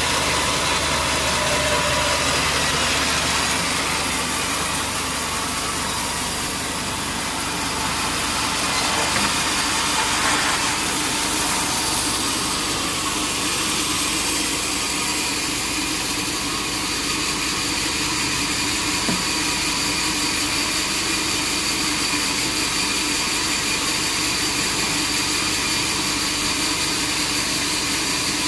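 Sawmill machinery running steadily with a continuous mechanical noise.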